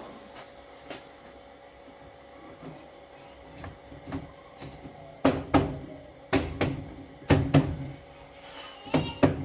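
A run of sharp, loud knocks and clunks from about halfway through, some in quick pairs, after a few faint ticks.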